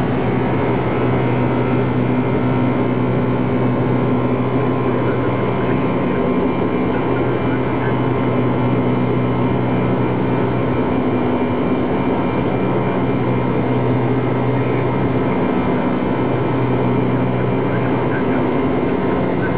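Boeing 747 flight deck noise: steady engine and airflow noise with a constant low hum.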